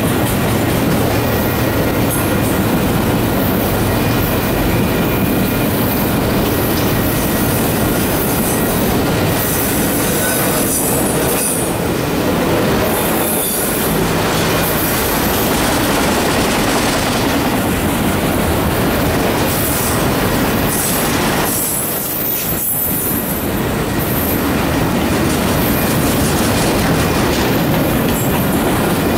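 Empty autorack freight cars rolling past close by: a steady loud rumble and clatter of steel wheels on the rails. Now and then a high-pitched wheel squeal rises over it.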